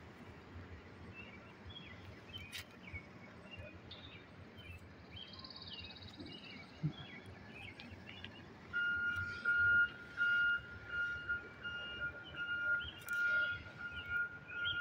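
Small birds chirping. About nine seconds in, a high steady tone starts beeping over and over, a little more than once a second, and becomes the loudest sound.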